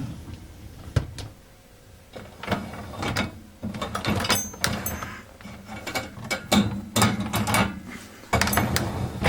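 Dishwasher racks and fittings being handled: an irregular run of clicks, knocks and rattles of plastic and metal parts.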